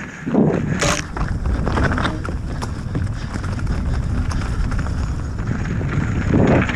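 Transition Sentinel enduro mountain bike riding a rough trail: tyres rolling over rocks and the bike knocking and rattling over the bumps. A steady low wind rumble sits on the microphone, with louder swells about half a second in and near the end.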